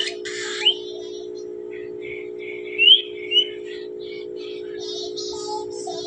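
Pet cockatiels chirping and calling: short rising whistles and harsh squawks, the loudest just after the start and about three seconds in, over a steady low hum.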